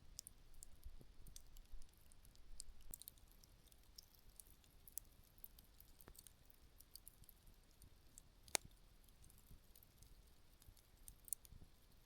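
Wood campfire burning down to embers, giving off sparse faint crackles and small pops, with one sharper pop about eight and a half seconds in.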